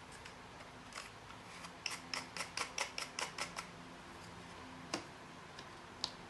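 A quick run of about ten small, sharp clicks, roughly six a second, with single clicks before and after it.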